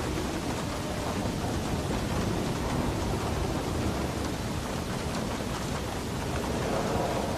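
Heavy rain falling steadily on a roof, with a low rumble of thunder underneath.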